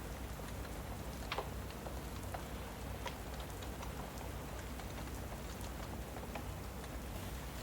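Steady rain with a fire crackling: a continuous hiss of rainfall, broken by irregular sharp pops and snaps from the burning logs, the loudest about a second in.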